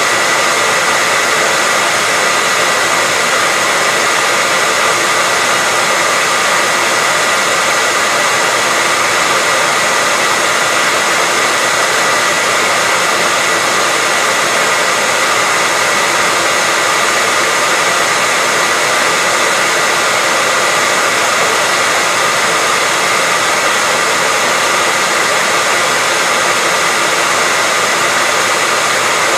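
Hair dryer running steadily: an even rushing hiss of blown air with a constant high motor whine, unchanging throughout.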